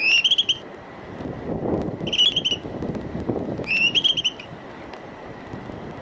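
A songbird singing a short phrase of quick rising notes three times, over a low background rumble.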